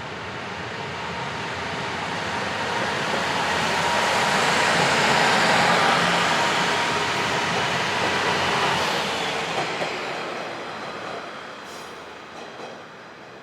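KiHa 110-series diesel railcar set passing, its engine and wheels on the rails growing louder to a peak about five or six seconds in, then fading as it moves away, with a few faint clicks near the end.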